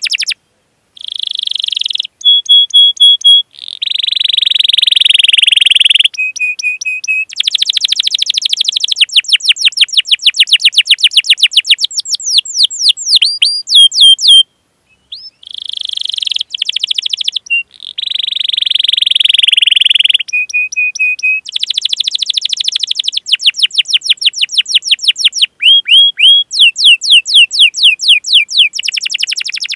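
Domestic canary singing a long song of rapid repeated sweeping chirps and buzzy rolling trills, broken by brief pauses about a second in and around halfway.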